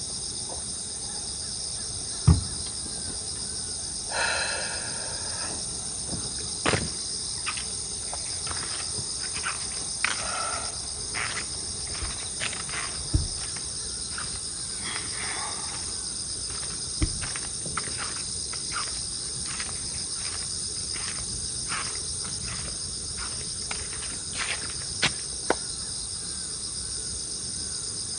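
A steady high-pitched chorus of insects such as crickets, with scattered light taps and clicks over it; the loudest tap comes about two seconds in.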